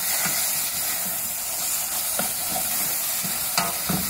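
Onion, tomato and spice masala sizzling in oil in a steel pot while a wooden spatula stirs and scrapes through it, with a couple of sharper knocks of the spatula against the pot near the end.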